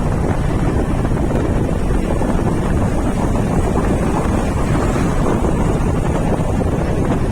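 Steady wind buffeting the microphone of a moving motorcycle, a loud, even rushing noise that is heaviest in the bass.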